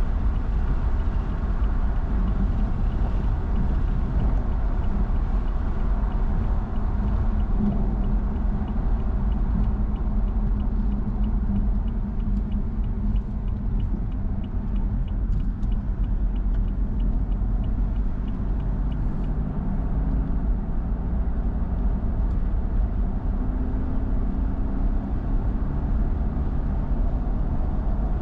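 Car on the move, its engine and road noise a steady rumble, with a light regular ticking, a few ticks a second, for most of the first two-thirds. Later the engine note climbs as the car speeds up.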